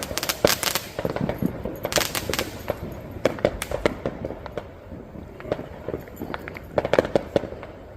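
Firecrackers and fireworks going off in rapid, irregular strings of sharp cracks and pops, with denser volleys near the start, about two seconds in and again about seven seconds in.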